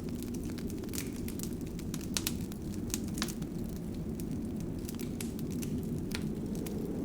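Wood fire in a fireplace crackling, with irregular sharp pops and snaps over a steady low rush of the burning fire.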